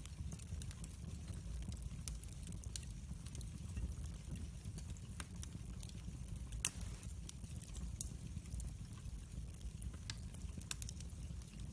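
Wood fire crackling: irregular sharp pops and snaps over a steady low rumble, with one louder pop a little past halfway.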